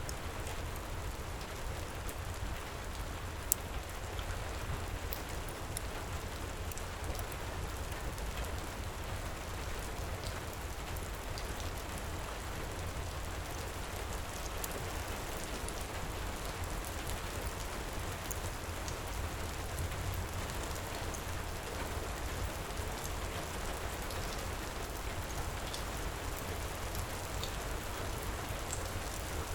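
Steady heavy rain with a low rumble underneath, and scattered small crackles from a wood fire, one sharper pop about three and a half seconds in.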